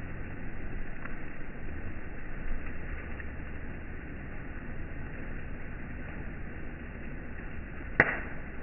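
Wood campfire burning with a steady hiss and a few faint crackles, then one loud, sharp pop from the burning logs near the end.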